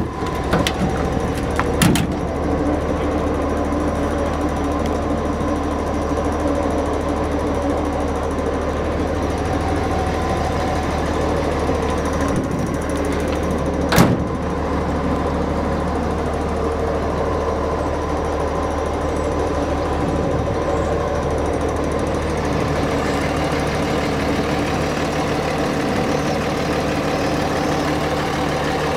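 2006 Dodge Ram 3500's 5.9-litre Cummins inline-six turbo diesel idling steadily. A couple of sharp clicks sound near the start, and a louder knock comes about halfway through.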